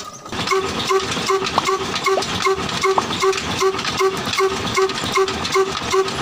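Miniature single-cylinder stationary diesel engine model running steadily, chugging at about two and a half beats a second over a steady hiss, while it drives a belt-driven water pump.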